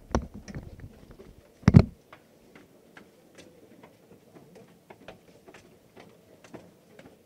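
Footsteps of several people walking on a hard floor: scattered shoe clicks and taps, several a second, with a heavy knock a little under two seconds in.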